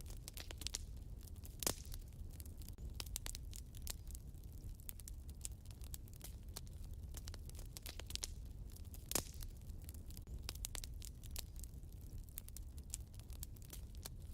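Wood fire in a fireplace crackling: a dense run of small snaps with two louder pops, about a second and a half in and again about nine seconds in, over a low steady rumble.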